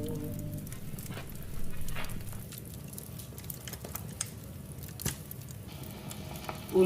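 Wood fire in a fireplace crackling, with scattered sharp snaps over a faint low rumble. A held note of music fades out at the start, and a voice starts singing at the very end.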